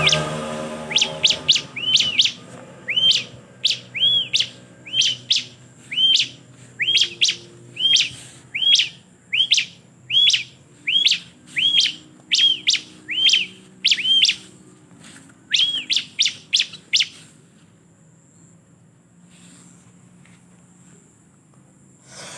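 A ciblek (bar-winged prinia) calling: a long run of short, arched chirps, each rising and falling in pitch, about one and a half a second, that stops about 17 seconds in.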